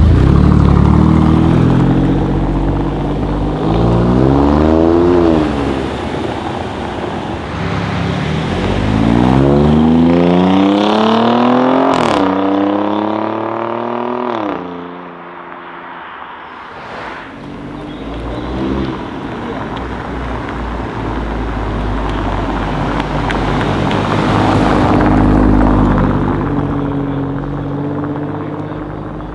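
Alfa Romeo Giulia Quadrifoglio's 2.9-litre twin-turbo V6 accelerating hard, its engine note climbing in pitch through several gears and dropping back between pulls. A single sharp crack comes midway, and the note then falls away quieter before another car's engine builds again.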